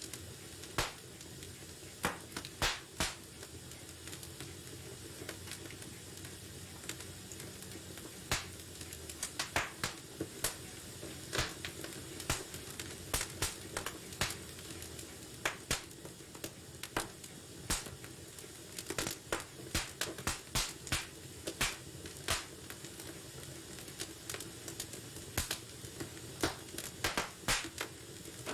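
Wood fire burning in a fireplace, with a steady low hiss and irregular sharp crackles and pops.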